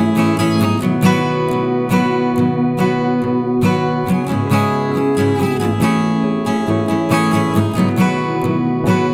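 Background music: strummed acoustic guitar in a steady rhythm.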